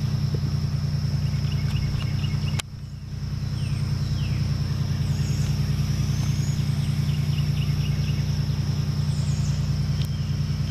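A car engine running steadily with an even low hum, which dips sharply about two and a half seconds in and then swells back. A steady high insect drone and a few faint bird chirps sound behind it.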